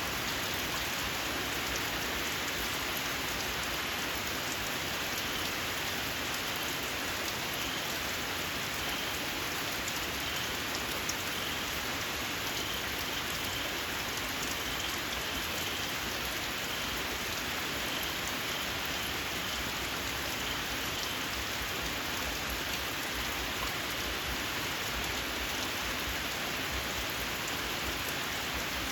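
Steady rain falling. Through the middle of it comes a faint series of short, high, squealing calls from small frogs.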